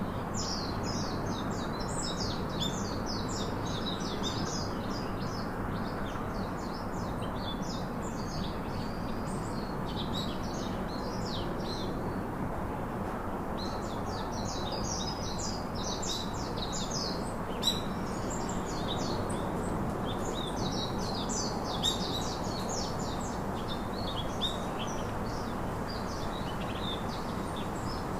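Several small birds chirping and twittering in quick, high, overlapping phrases, easing off briefly part way through, over a steady background rush of outdoor noise.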